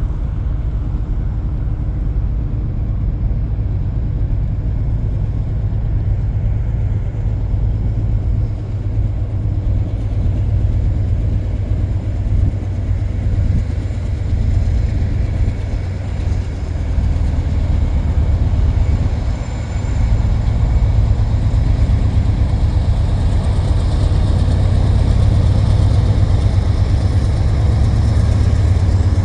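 Diesel freight locomotives running with a steady low rumble, getting somewhat louder about twenty seconds in.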